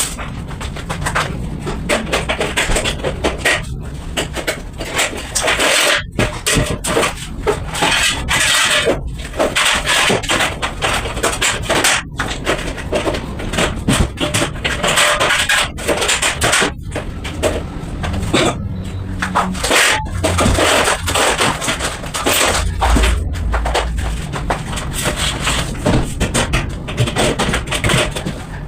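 Busy, irregular knocking, clattering and scraping from construction work with tools and materials, with many sharp strokes close together.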